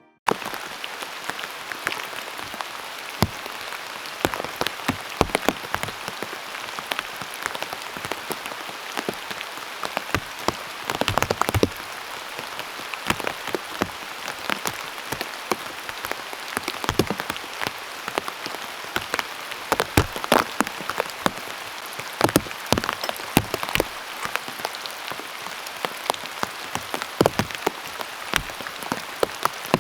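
Heavy rain pouring steadily, with big drops striking close by in frequent sharp taps.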